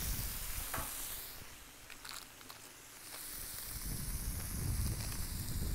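Ground beef patties and bacon sizzling on a Blackstone flat-top griddle, a steady hiss that dips quieter for a second or so in the middle and then comes back.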